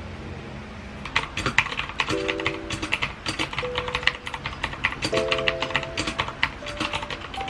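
Typing on a computer keyboard: rapid, irregular key clicks that start about a second in.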